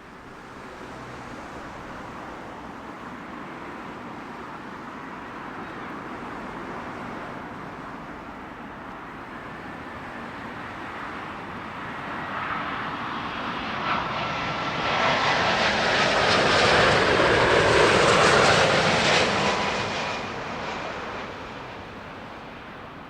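Jet airliner on final approach passing low overhead to land. Its engine noise swells, peaks about two-thirds of the way through and fades away, with a whine that slides down in pitch as it goes by.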